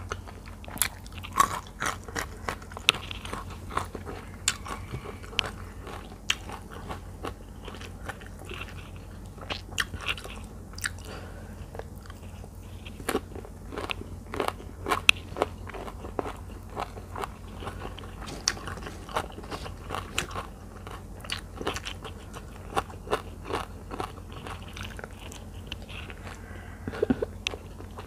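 Close-up mouth sounds of a person chewing spicy tilapia larb with sticky rice and raw vegetables: a continuous run of crisp crunches and wet mouth clicks, some much louder than others, over a steady low hum.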